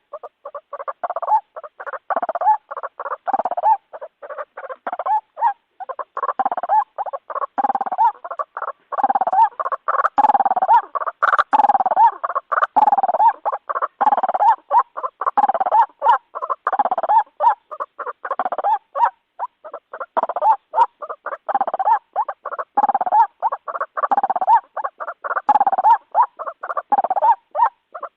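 White-breasted waterhen (ruak-ruak) calling without a break: a long series of short, harsh repeated notes, about two a second, played as a recorded bird-lure call.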